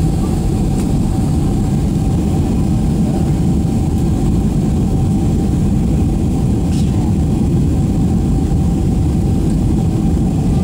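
Jet aircraft engines running: a loud, steady low rumble with a faint steady whine above it.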